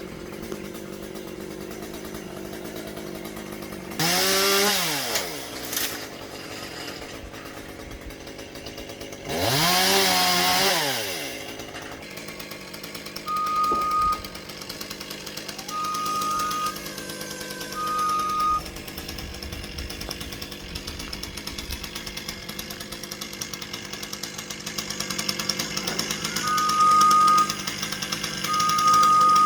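Chainsaw revved hard twice in short bursts, its pitch rising and falling with the throttle, over a steady engine hum. Later a series of short, high, evenly pitched beeps repeats.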